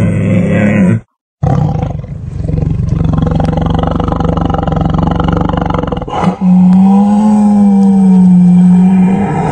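Tiger growling in several takes: a short growl falling in pitch that breaks off about a second in, then a long low growl, then a louder, higher growl held steady from about six seconds in.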